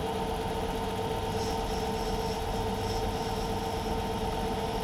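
Myford metal lathe running steadily with a constant motor and gearing hum while turning a steel part.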